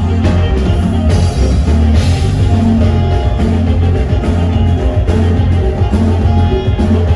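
A band playing huapango music through a PA sound system, with heavy bass and a steady beat.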